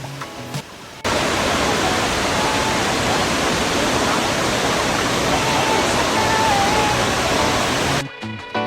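Steady rushing of a large waterfall plunging into the river below. It comes in abruptly about a second in and cuts off shortly before the end, where music returns.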